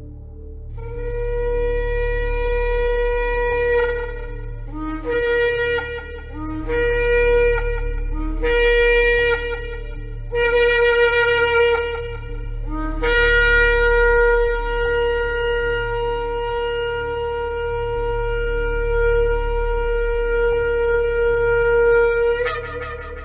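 Shofar (ram's horn) being blown: a long blast, then four shorter blasts that each start on a low note and jump up, then one very long held blast of about nine seconds that breaks upward in pitch at the end. A steady low hum runs underneath.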